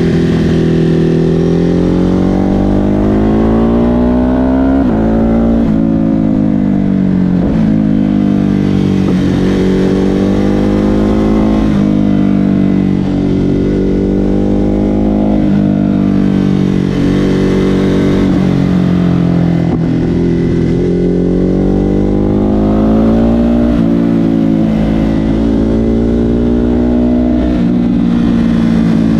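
Ducati Hypermotard 950 SP's L-twin engine through an SC Project exhaust, ridden on the road. Its pitch climbs under throttle and falls away again, over and over, with several quick drops.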